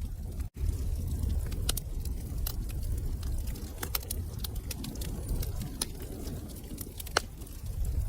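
Wood fire crackling in a fireplace: irregular sharp pops and snaps over a low steady rumble of flames, with one louder pop about seven seconds in. The sound cuts out for an instant about half a second in.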